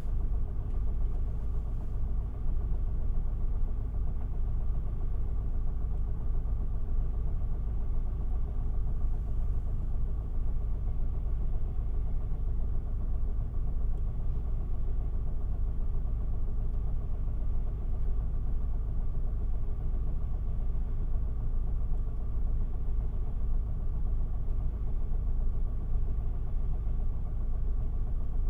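Isuzu Erga city bus's diesel engine, heard from inside the passenger cabin, running steadily with a deep, even low rumble that does not change.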